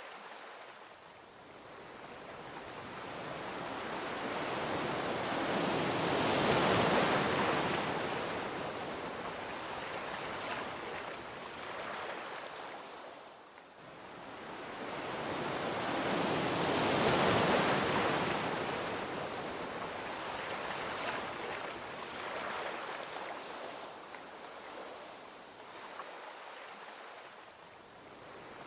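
Gentle ocean waves rolling onto a beach: two slow swells about ten seconds apart, each building to a breaking peak and fading into a long wash, with a third starting to rise near the end.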